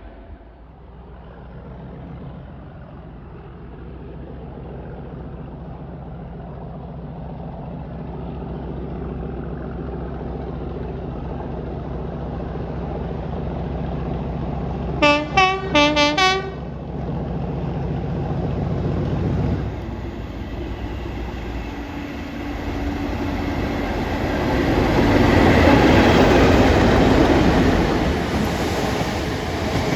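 A diesel train approaching, its engine drone building steadily. About fifteen seconds in it gives a quick series of about four short horn blasts, then it rolls past loudly with rising wheel and rail noise.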